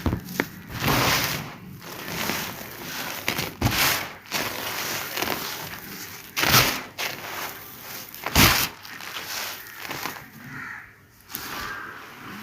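Dried sand-cement being crumbled in a sheet: irregular crackling, crunching bursts, with two sharper, louder crunches a little past the middle.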